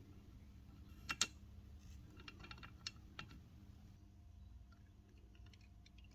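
Light clicks and taps of small hard parts being handled: a sharp pair of clicks about a second in, a quick run of clicks a second later, then fainter ticks near the end.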